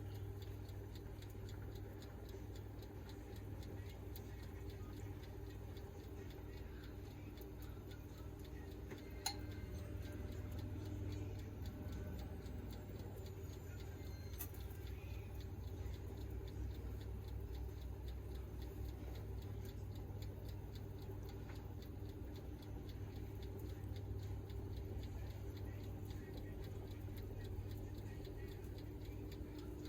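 Faint, rapid ticking and crackling over a steady low hum, with one sharper click about nine seconds in.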